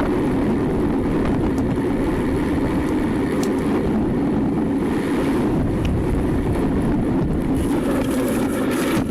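Steady rumble of a car driving: road and engine noise at an even level.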